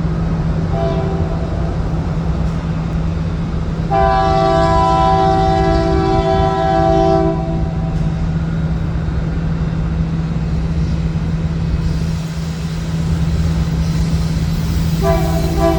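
Freight train's diesel locomotive horn sounding over a steady low rumble of the train: a short blast about a second in, a long loud blast of several tones at once from about four to seven seconds, and another blast beginning near the end.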